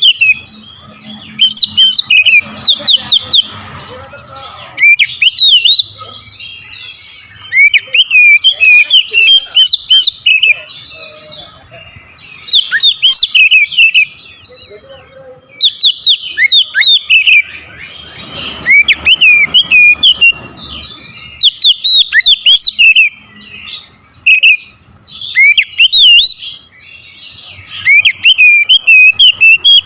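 Oriental magpie-robin (kacer) singing loudly in repeated bursts of rapid, varied whistled phrases with short pauses between them. It is the hard, full song of a bird worked up against a rival.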